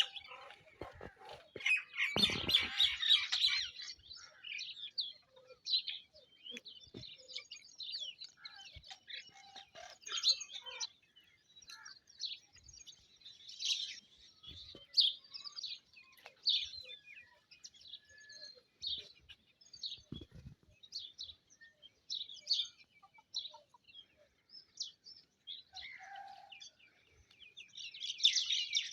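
Birds chirping: many short, high chirps in quick scattered series, densest about two to four seconds in and again near the end, with a few faint low knocks among them.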